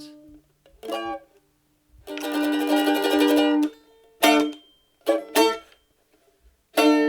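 A string instrument strummed without singing to close a song. There is a short chord, a fast strum held for about a second and a half, a few short chords, and near the end a final chord left ringing.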